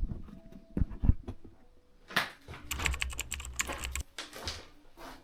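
A series of light knocks and clicks, with a quick clattering cluster from about two to four and a half seconds in over a low rumble.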